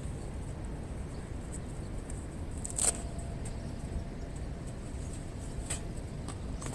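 Campfire wood burning, giving a few scattered sharp pops and crackles, the loudest a little under three seconds in, over a steady low rumble.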